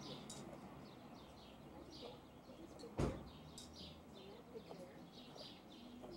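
Small birds chirping over and over in short, high calls, with one sharp knock about three seconds in.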